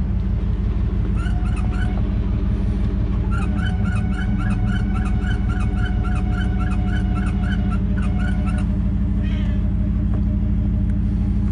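Pickup truck engine idling steadily. Over it, a rapid, regular chirping repeats several times a second, briefly about a second in and then for about five seconds from around three seconds in.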